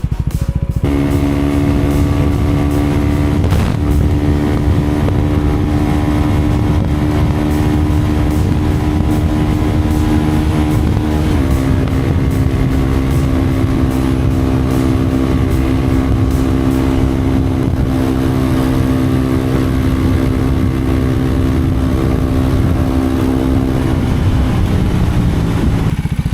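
Motorcycle engine running at a steady cruise, with heavy wind rumble on the microphone. The engine note steps down a little about eleven seconds in and falls away near the end.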